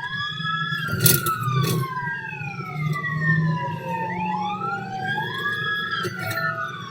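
Police car sirens wailing, two of them out of step, each sweeping slowly up and down in pitch, over a low steady rumble. A couple of sharp clicks about a second in.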